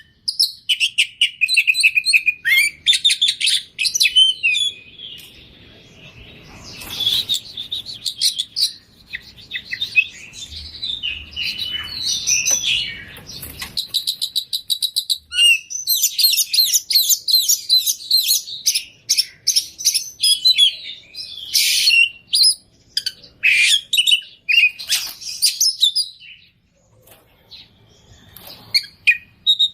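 Oriental magpie-robin (kacer) singing loudly and without let-up, a varied stream of rapid chirps, trills and whistles that is rich in mimicked calls of other birds. It breaks off briefly near the end.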